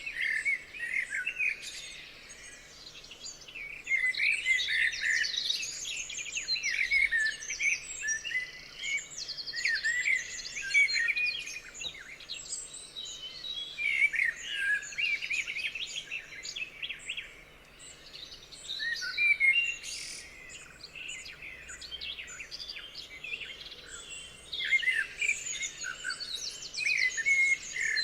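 Several songbirds singing together, a dense chorus of chirps, trills and whistled phrases coming in bursts with short lulls.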